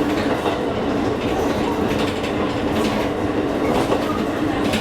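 Electric train running between stations, heard from inside the car: steady running noise and hum, with wheels clicking over rail joints.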